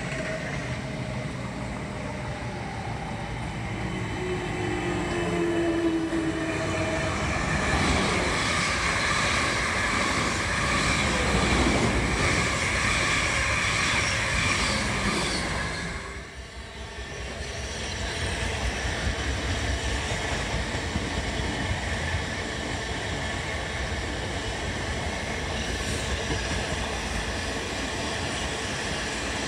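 Passenger trains running through a station at speed, with a steady rumble of wheels on the track. A high whine holds through the middle. There is a brief lull about sixteen seconds in before the next train's rumble takes over.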